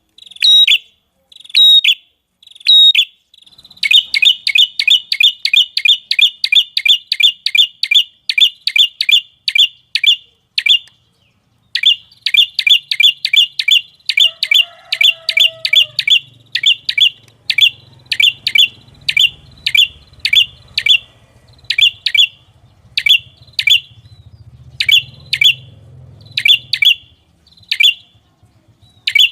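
A small songbird repeating short, sharp, high chip notes, at about four a second in fast runs and then more spaced out. It is a recording of a small bird's call of the kind played to train caged songbirds.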